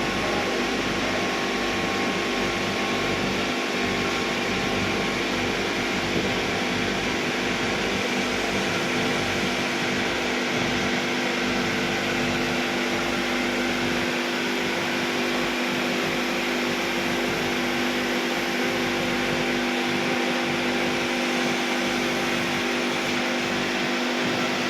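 Running LPG-fired industrial kiln and furnace plant: a steady, even hiss with a constant hum underneath, holding unchanged throughout.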